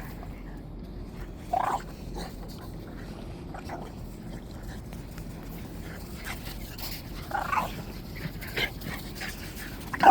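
Dogs giving a few short whines and yips, spaced out over several seconds, against steady background noise.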